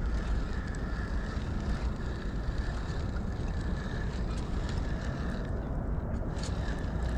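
Wind rumbling on the microphone over water noise, with a faint steady whine from a fishing reel cranking in a small hooked spotted bay bass. The whine fades about five seconds in, and a few light ticks follow near the end.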